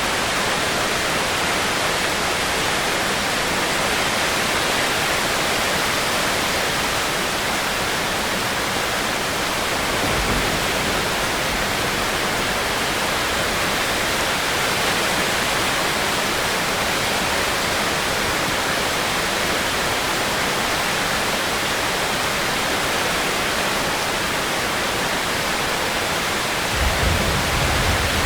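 Heavy rain falling as a steady, even hiss; a low rumble comes in near the end.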